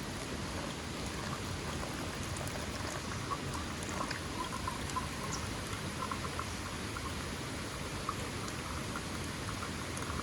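Steady patter of rain or dripping water, with scattered individual drops ticking throughout.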